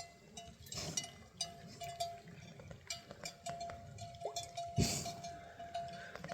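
Bells on grazing livestock clinking irregularly, their ringing tone coming and going, with one heavier thump a little before the end.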